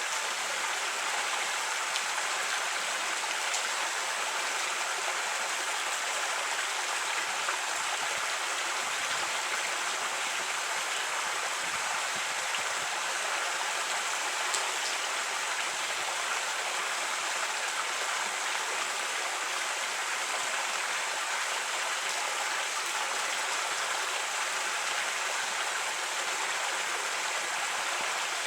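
Creek water flowing and splashing over rocks: a steady, even rush.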